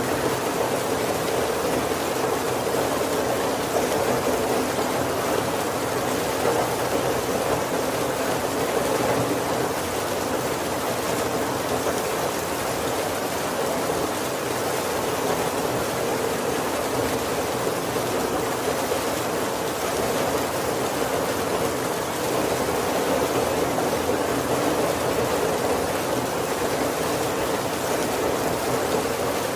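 Steady heavy rain falling on a wooden roof, an even hiss of drops with no thunder.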